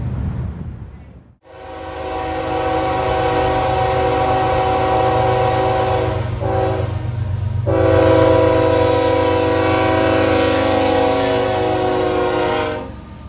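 Diesel locomotive air horn sounding a chord in long blasts: one from just after a sudden cut, then a short break about six seconds in, then another long blast that stops shortly before the end. A freight train's low rumble runs underneath.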